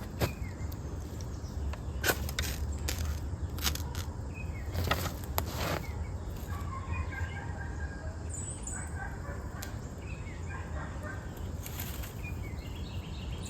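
Handling noise outdoors: a few sharp clicks and rustles in the first half, over a steady low rumble, with small birds chirping in the background in the second half.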